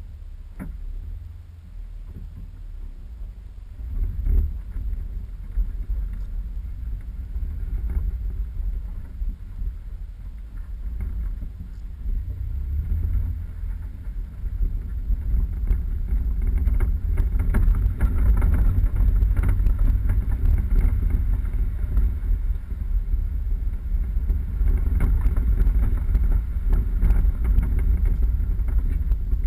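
4x4 vehicle driving off-road: a low, steady rumble of engine and terrain, with wind buffeting the microphone. It gets louder about halfway through.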